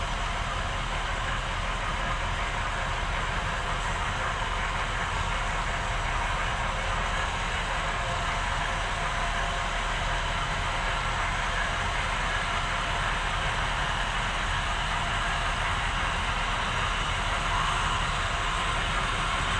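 HO scale model train running on the layout: a steady hum of the locomotive and rattle of wheels on the track, growing slightly louder near the end.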